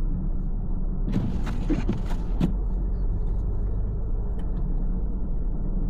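A car driving on a snowy road: a steady low rumble of engine and road noise with a constant hum. About a second in, a few short, sharp noisy bursts come in quick succession.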